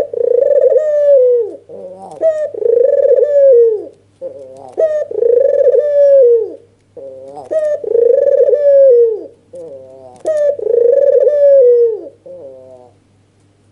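Albino (white, red-eyed) Barbary dove cooing: five bow-coos about every two and a half seconds, each a short note followed by a long drawn-out coo that falls away at its end. This is the excited nodding coo used as a lure call to set other doves calling.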